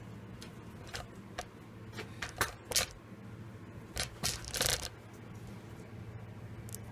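Scattered light clicks and knocks as small workshop tools and parts are handled and set down, in two clusters, over a steady low hum.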